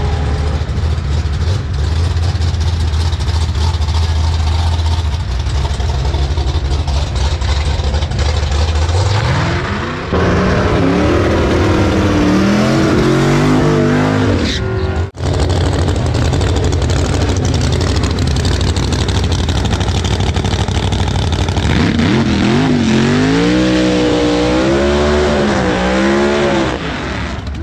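Pickup truck engines running at a drag strip: a steady low rumble, then an engine revving and climbing in pitch. There is a brief sharp break about fifteen seconds in, and near the end the engine is blipped up and down in pitch.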